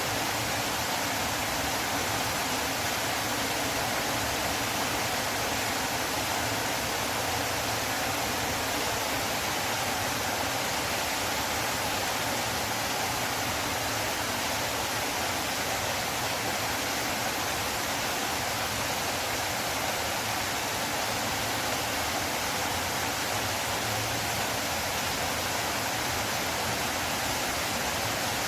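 River water flowing: a steady, even rush of water without pause.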